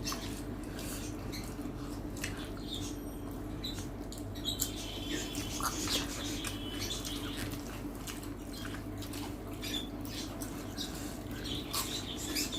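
Mealtime eating sounds: chewing and mouth noises with scattered small clicks and taps, over a steady low hum.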